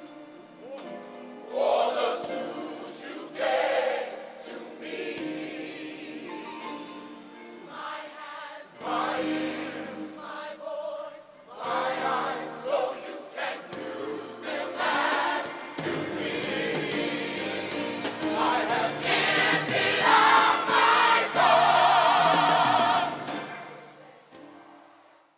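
Gospel choir singing with musical accompaniment, the voices rising to their loudest in the later part before the music falls away at the end.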